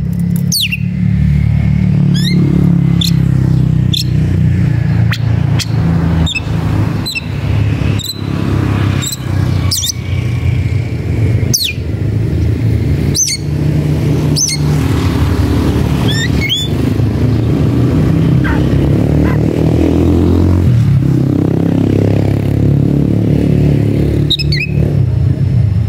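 Oriental magpie-robin (kacer) giving sharp, sweeping call notes about once or twice a second, with a gap of a few seconds near the end: the agitated calling of a bird seeking a rival to fight. Under it runs a loud, steady low rumble.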